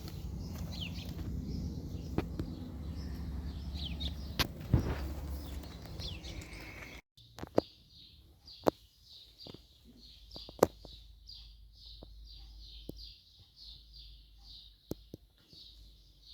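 A bird chirping over and over, about two or three high chirps a second, with a few sharp knocks among them. Before a cut in the first half there is a low rumble with scattered clicks and chirps.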